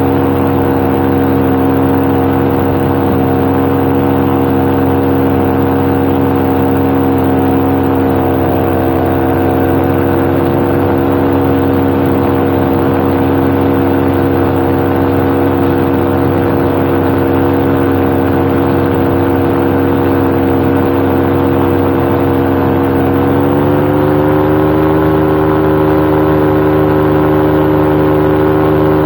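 Paramotor's two-stroke backpack engine and propeller running steadily at cruise throttle in flight, with wind on the microphone. About 23 seconds in, the engine speed rises a little as the throttle is opened, and it holds at the higher pitch.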